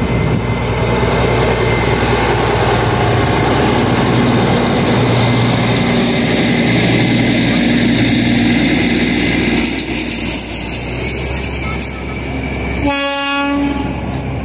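Darjeeling Himalayan Railway NDM6 diesel locomotive and its coaches passing slowly: a steady engine drone for the first ten seconds or so, then a quieter rolling sound with light clicks as the coaches go by. A brief pitched blast sounds near the end.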